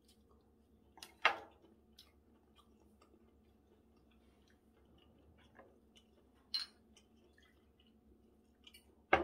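A person chewing food close to the microphone, with a few sharp clicks and knocks of tableware; the loudest come about a second in and right at the end.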